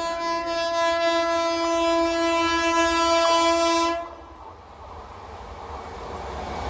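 Locomotive air horn of an approaching train sounding one long, steady note that cuts off about four seconds in. After it, the rumble of the oncoming train rises toward the end.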